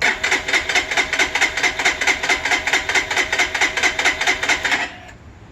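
Electric starter cranking the Lifan KPR 200's single-cylinder engine, a fast, even chatter of about six pulses a second, without the engine catching. It stops abruptly near the end. This is a crank-but-no-start on the freshly assembled, fuel-injected bike.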